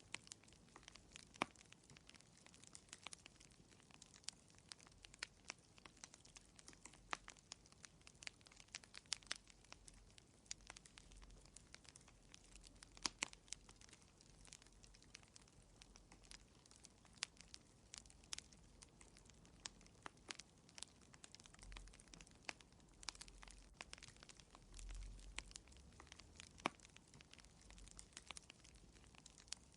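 Fire in a fireplace crackling softly: irregular sharp pops and snaps, several a second, over a faint hiss, with a faint low rumble now and then near the end.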